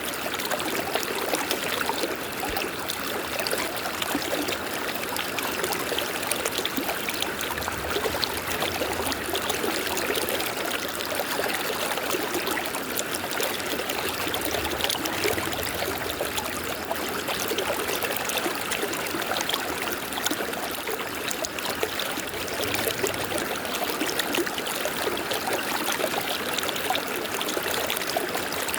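River water running and splashing over rocks, a steady rushing with fine trickling detail.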